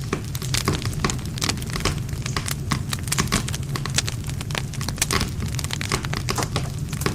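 Wood campfire crackling, with many sharp snaps and pops of burning wood coming thick and irregular over a steady low rumble of the flames.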